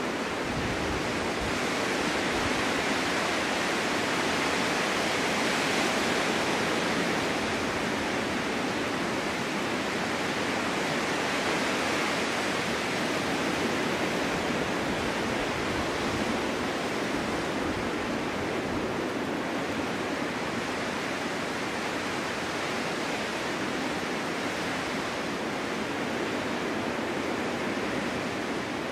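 Snowstorm wind blowing steadily, an even rushing hiss that swells and eases slowly in long gusts.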